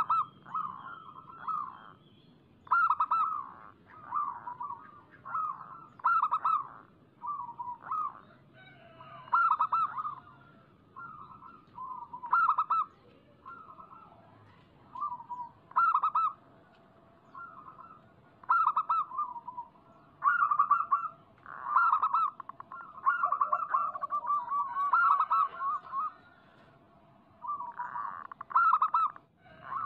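Zebra dove (local perkutut) cooing energetically: short, quick phrases of clipped coos repeated every second or two, with phrases running together in the latter half.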